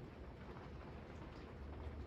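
A Canarm Murano 42-inch ceiling fan running on high speed, wobbling badly: a steady rush of air over a low hum, with faint scattered ticks.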